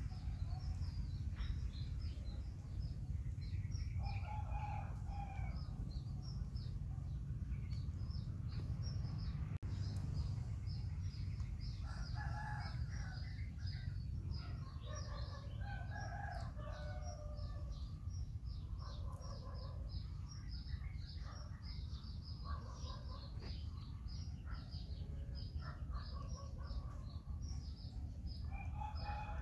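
Birds: a rapid, continuous run of short high chirps, with lower calls of chickens lasting about a second every few seconds, over a steady low rumble.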